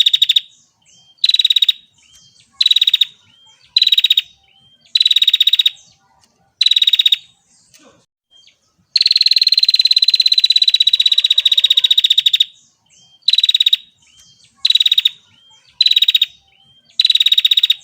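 Female bar-winged prinia giving its rapid, buzzy ticking trill near 4 kHz, repeated in short bursts of under a second. One longer trill of about three and a half seconds in the middle falls slightly in pitch.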